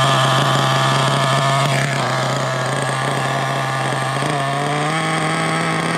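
HPI Savage X 4.6's small nitro engine idling steadily after a fresh start, its note stepping up slightly near the end. The steady idle is what the owner takes as a sign that there are no air leaks.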